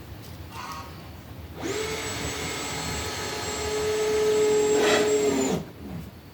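Power drill running for about four seconds: the motor spins up to a steady whine, strains slightly louder as it works, then winds down.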